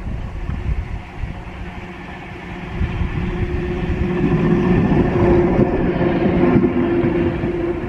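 A train running on the track, growing louder about three seconds in, with a steady whine over the rumble.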